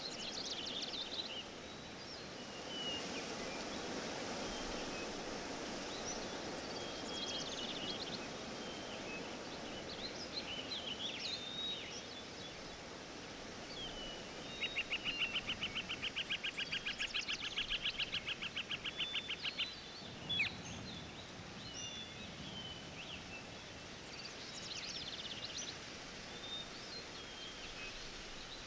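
Forest ambience of songbirds chirping and calling over a steady background hiss. Midway one bird gives a fast trill of rapidly repeated notes lasting about five seconds, followed by a single short sharp click.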